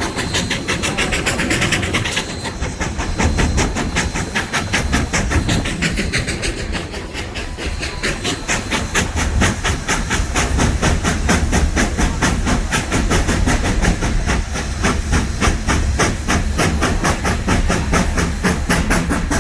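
1920 Baldwin steam locomotive working hard, its exhaust chuffing in quick, even beats over a steady steam hiss. The driving wheels are slipping, spinning faster than the engine moves.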